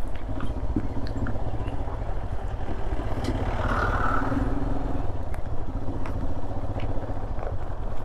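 Royal Enfield Himalayan's 411 cc single-cylinder engine running at low speed on a rough descent, with scattered clatter from the bike going over bumps and a brief high squeal about halfway through.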